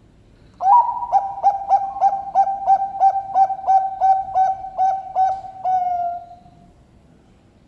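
Zebra dove (perkutut, Bangkok-bred strain) singing: one cooing song of about fourteen quick repeated notes, about three a second, ending on a drawn-out final note.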